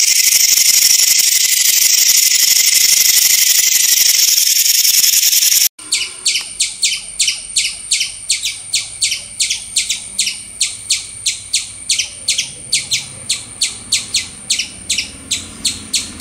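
A snake hissing steadily for about five and a half seconds, then cutting off abruptly. Then a rapid, even series of sharp high chirps, about three a second, the repeated alarm call of a Eurasian red squirrel, over a thin steady high tone.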